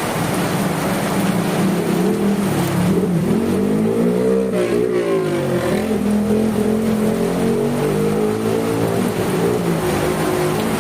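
A motor vehicle's engine running and passing by over steady rain noise, its pitch shifting up and down about halfway through.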